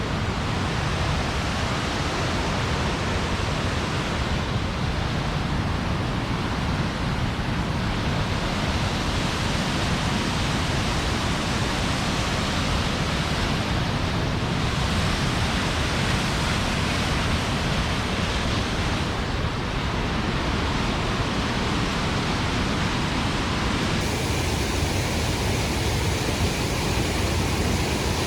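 Steady rushing of falling water. Its tone shifts abruptly near the end.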